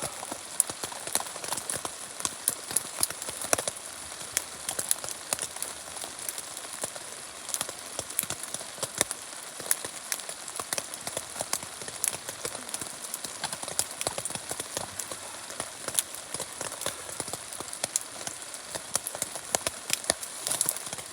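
Rain falling on a teepee tent, drops tapping irregularly and sharply on the shelter fabric, several a second, over a steady light hiss.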